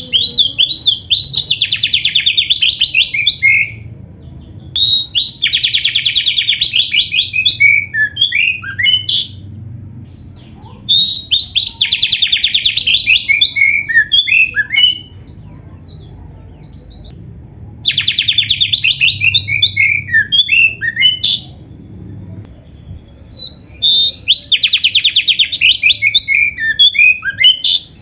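Oriental magpie-robin (kacer) singing in five loud bouts of three to five seconds each, with short pauses between. Each bout opens with a fast run of rapidly repeated notes and breaks into varied whistled and gliding phrases. This is the bird in full song, 'gacor full isian', packed with fill-in phrases.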